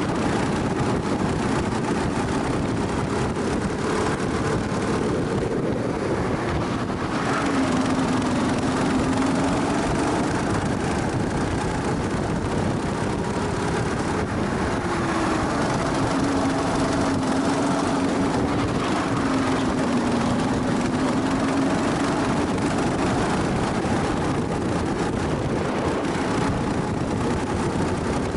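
Kart engine heard on board at speed, its note rising and falling with the throttle through the corners, under a constant rush of wind and road noise.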